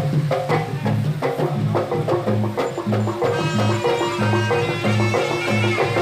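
Live jaranan music: drums and gongs keeping a steady repeating beat, with a reedy slompret melody coming in about three seconds in.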